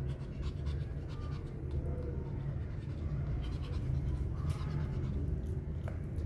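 Pomeranian puppy panting, with small clicks and scratching sounds.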